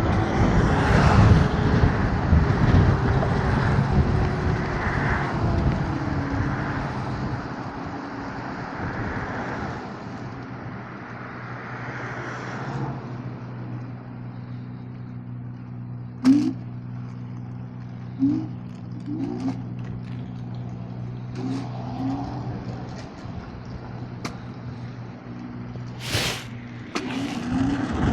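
Riding an electric scooter through city traffic: wind and road noise for the first ten seconds or so, then easing into a steady low hum broken by a few sharp clicks and knocks.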